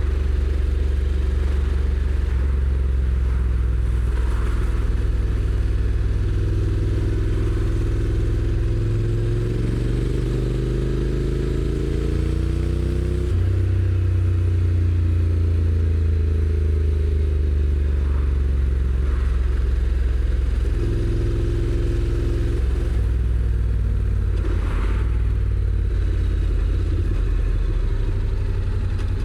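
Honda NC750X motorcycle's 745 cc parallel-twin engine heard from the rider's seat on the move, with a stock exhaust and wind rush. The revs climb for several seconds about a third of the way in, the note changes abruptly about halfway as the dual-clutch gearbox shifts, and the engine then runs steadier.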